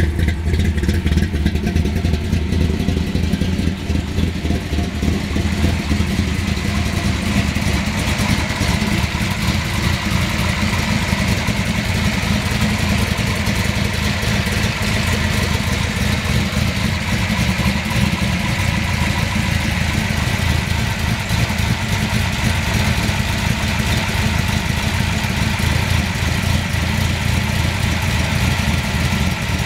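496 cubic-inch big-block Chevrolet V8 in a 1967 Chevelle SS pro street car idling steadily through its 3-inch exhaust.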